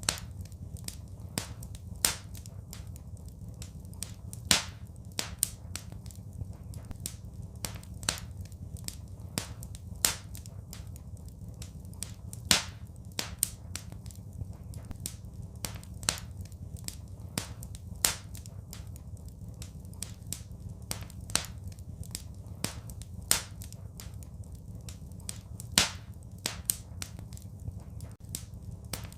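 Wood fire crackling: a steady run of irregular small snaps, with a louder pop every few seconds, over a steady low rumble.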